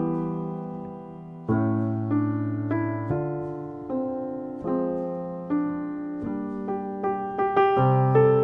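Solo piano playing a slow, gentle instrumental: sustained chords struck about once a second, each fading before the next.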